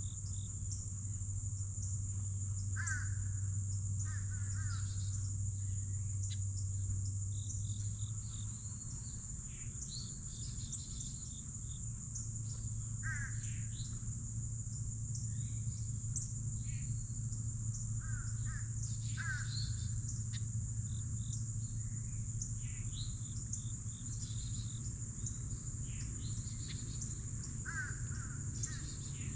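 Wild birds calling: short calls every few seconds, some lower and some higher-pitched. Under them run a steady high-pitched insect drone and a low steady hum.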